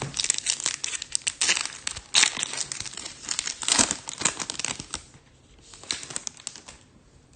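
Foil trading-card pack wrapper being torn open and crinkled by hand: a dense run of sharp crackles that dies down after about five seconds.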